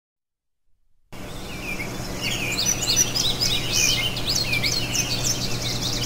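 Songbirds chirping and singing, many quick rising and falling notes, starting about a second in, over a steady low hum.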